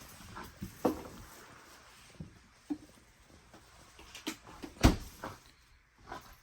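Scattered knocks and clunks of groceries and containers being handled while a fridge is emptied, the loudest sharp knock about five seconds in.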